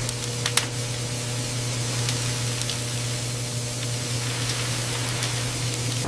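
Steady machinery noise: a constant low hum under an even hiss, with a few sharp clicks, the loudest about half a second in.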